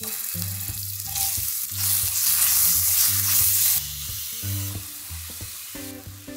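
Garlic and chopped vegetables sizzling in hot sesame oil in a frying pan. The sizzle swells loudest about two seconds in and eases again a couple of seconds later, with stirring toward the end.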